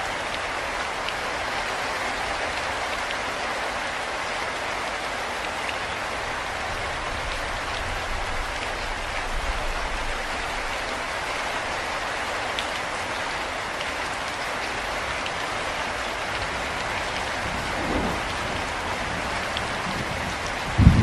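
Steady rain falling, an even hiss with scattered individual drop ticks. Faint low rumbles come midway, and a loud low roll of thunder breaks in right at the end.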